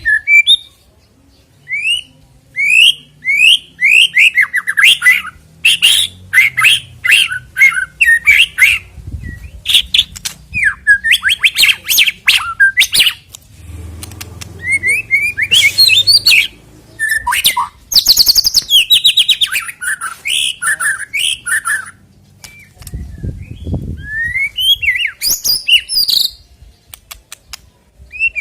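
White-rumped shama singing a long, varied song: quick rising whistled slurs, fast rattling trills and sharp clicking notes in bursts, with short pauses between phrases.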